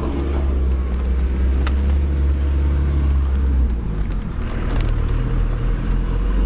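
Off-road 4x4 vehicle's engine running with a steady low rumble, its note dropping slightly about two-thirds of the way through.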